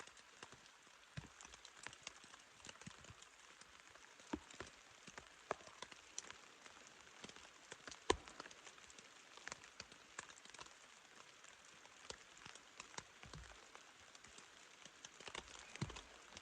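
Light rain falling on a tent's fabric: scattered, irregular taps of drops over a faint steady hiss.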